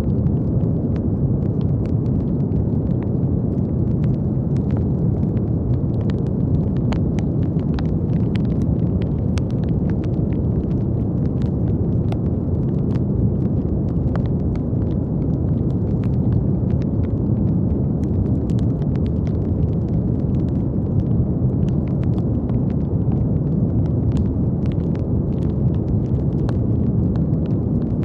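Steady brown noise: a deep, even hiss weighted toward the low end, with faint crackles scattered irregularly through it.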